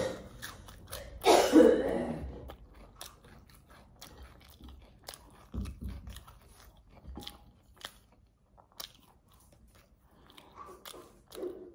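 Close-up chewing and mouth sounds of a person eating cheese-topped potato wedges and bacon by hand: many small crunches and wet clicks. A brief loud voice sound comes about a second in.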